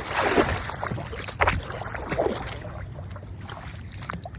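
Floodwater splashing and sloshing as someone wades through knee-deep water, with louder splashes at the start, about a second and a half in, and a little after two seconds.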